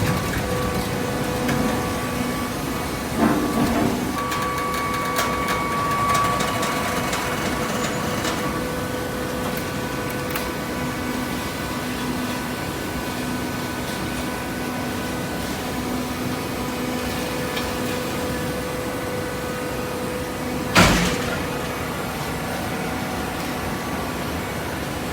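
Hydraulic vertical baler running: a steady hum from its electric motor and hydraulic pump, with a metallic clunk about three seconds in and a sharper, louder knock near the end.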